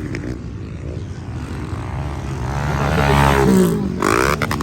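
Motocross motorcycle engines revving hard during a race, rising in pitch as a bike accelerates about three seconds in.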